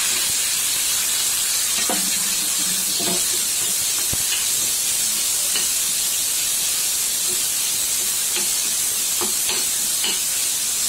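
Onions, dried red chillies and freshly added tomato pieces sizzling in hot oil in a metal kadai: a steady hiss, with a few soft knocks and scrapes of the spatula as it stirs.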